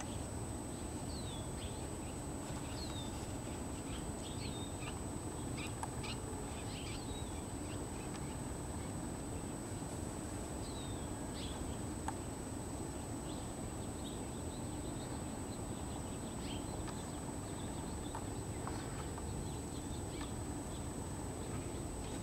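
Birds making many short, high calls, most of them falling in pitch, coming thick and fast through the first half and more scattered later. A steady low background rumble and a thin high whine run underneath.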